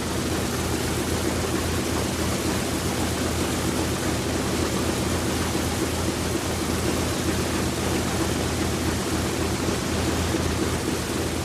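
B-29 Superfortress radial piston engines running steadily at a constant speed, a dense, even drone with no change in pitch.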